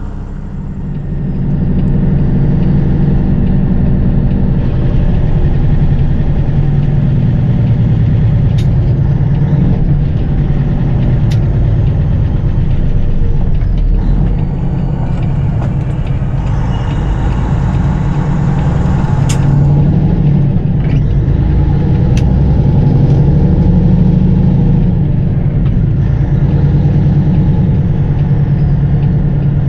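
Peterbilt 579 semi truck's diesel engine running as the truck pulls away, getting louder about a second in and then holding steady. A few sharp clicks sound over it.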